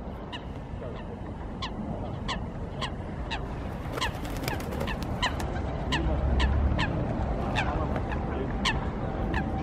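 A waterbird calling over and over: short, sharp calls, each sliding down in pitch, about one and a half a second, over a low rumble.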